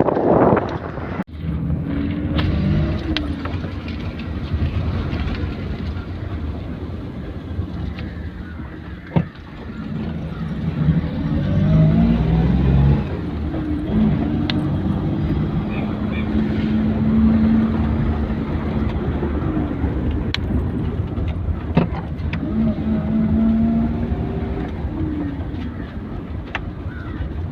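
Maruti 800's three-cylinder petrol engine running on a test drive with road noise, its note rising and falling slowly with throttle. There is no clicking from the front axle through the turn, since the worn left-side axle has been replaced with a second-hand one.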